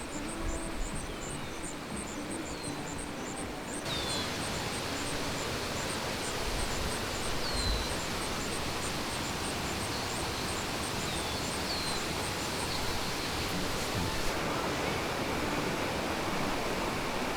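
Steady rushing roar of a mountain waterfall, stepping up louder about four seconds in. Over it, a high chirp repeats about three times a second for most of the stretch, and birds give a few short falling whistles.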